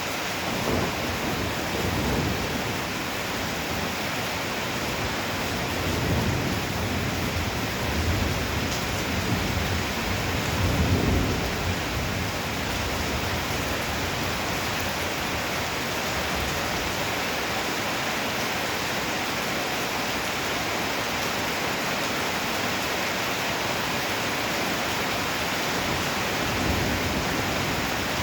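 Heavy downpour hissing steadily, with thunder rumbling in several rolls through the first half, the strongest about eleven seconds in, and a smaller roll near the end.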